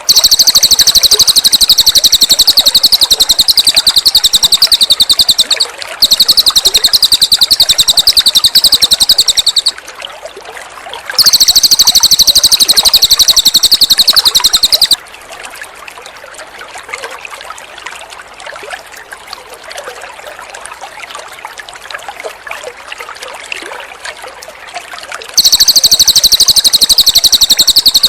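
Cililin bird singing loud, rapid, high-pitched trills in long runs of a few seconds each, four times. Between the runs, and through a long break in the middle, water trickles softly.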